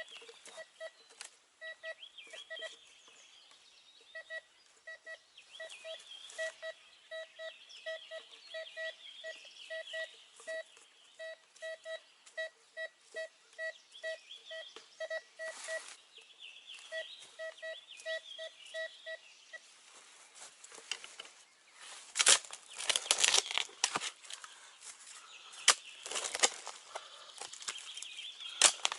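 Metal detector sounding a steady-pitched beep about twice a second as it passes over a target, with birds chirping faintly behind it. Near the end the beeping stops and loud rustling and knocking of digging in the ground takes over.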